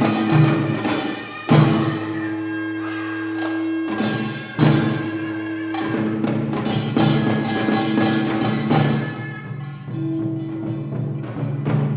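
Korean traditional ensemble music: a double-reed pipe holds long, steady notes over janggu and buk drumming, with heavy accents about one and a half seconds in and again after four and a half seconds.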